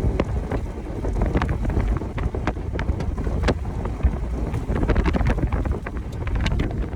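Wind buffeting the microphone over the low rumble of a moving vehicle, with scattered sharp ticks and taps throughout.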